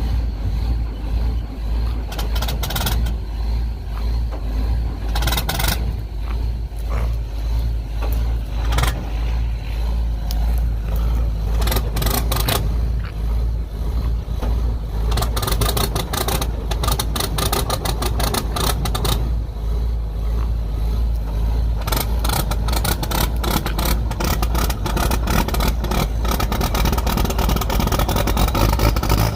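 Vehicle engine running steadily, a deep rumble with frequent rattles and knocks over it.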